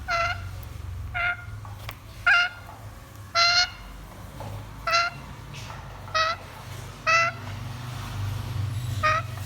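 African grey parrot repeating the same short call about eight times, roughly once a second, over a low steady hum.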